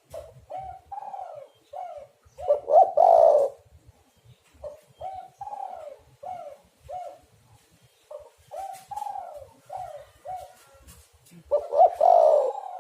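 Spotted dove (tekukur) cooing: a steady series of short, falling coos, with two louder, fuller bursts of calling, one about a quarter of the way in and one near the end.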